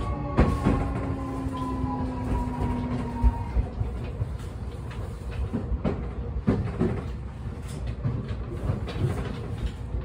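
Keio Inokashira Line electric train braking into a station, heard from inside the car: the motor whine falls in pitch and dies away about three seconds in, over a low rumble of the wheels. Scattered clicks from the wheels crossing rail joints follow.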